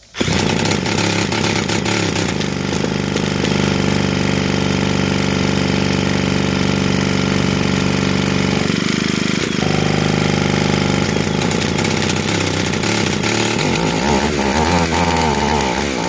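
Stihl 028 WB chainsaw's two-stroke engine running steadily, coming in suddenly at the start. It dips briefly about nine seconds in, and its pitch wavers up and down near the end. The saw is running after its points were filed and its plug swapped to cure a weak, intermittent spark.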